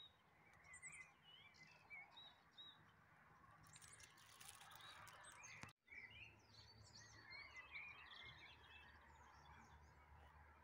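Faint birds chirping in short scattered calls over quiet outdoor background noise, with a brief dropout about halfway through.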